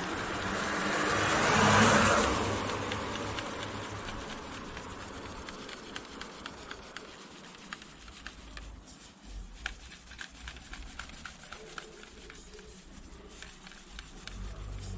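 A car passing by, its tyre and engine noise swelling to a peak about two seconds in and then fading away. Afterwards come faint, irregular small clicks.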